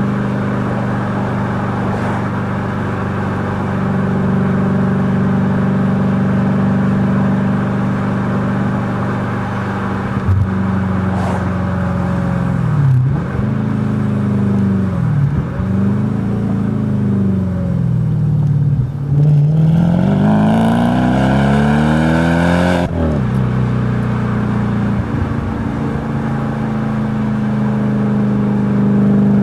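Audi B7 S4's 4.2-litre V8 through a Stasis exhaust, idling steadily, then revved in several short blips and one longer climb to high revs that drops sharply back to idle.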